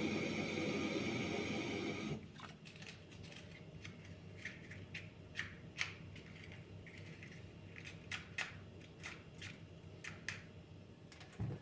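Dense background music cuts off about two seconds in. After that come scattered light clicks and snips of small hand work, and a low thump near the end.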